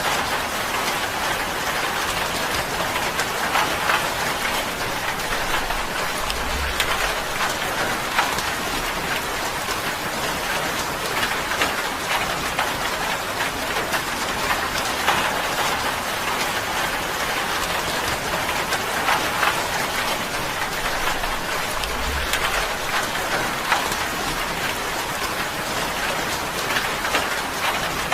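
Steady rain falling on a tin roof: an even hiss of rainfall with a dense scatter of individual drop hits on the metal.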